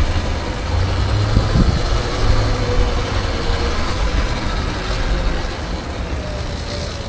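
Motorcycle engine running at a steady, slowly drifting pitch under a heavy low rumble of wind on the microphone.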